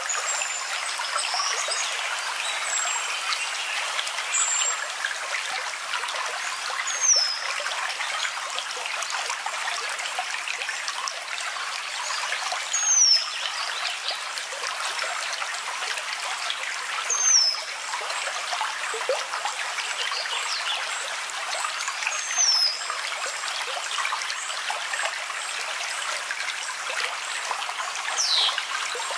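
Steady running water, like a small stream, with a bird's short high chirps falling in pitch about five times, several seconds apart.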